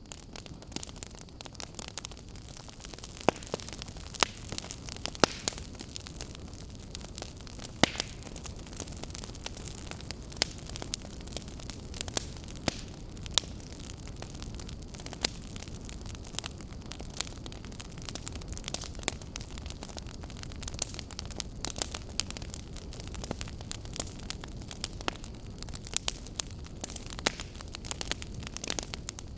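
Wood fire crackling steadily, with frequent sharp pops and snaps over a low rumble and hiss of the flames.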